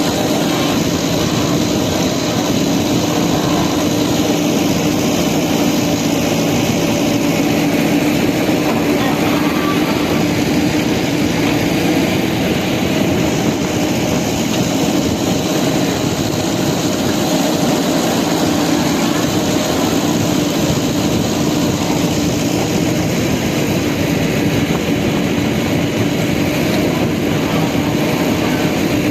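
Steady whir of small electric motors driving toy vehicles, a toy JCB and tractor, running without a break with a constant hum.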